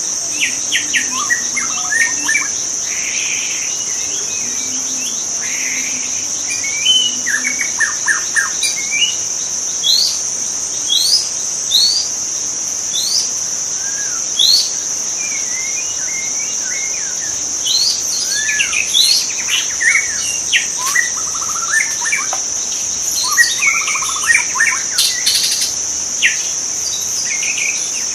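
White-rumped shama singing in the wild: a run of short, clear rising whistles and chirps, busiest in the middle and toward the end, over a steady high-pitched drone of crickets or cicadas.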